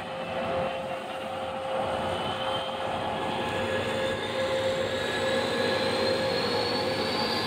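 MARC commuter train running at the platform: a steady hum and a high whine that climbs slowly in pitch, over a continuous rumble.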